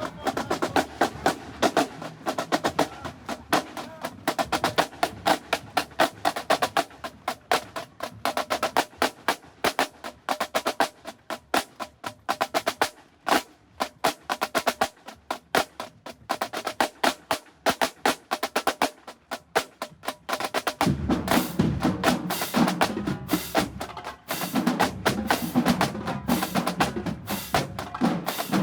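Marching band drumline playing a cadence: fast, crisp snare strokes and rim clicks in a steady rhythm. About three-quarters of the way through, deeper drums join in and the sound fills out.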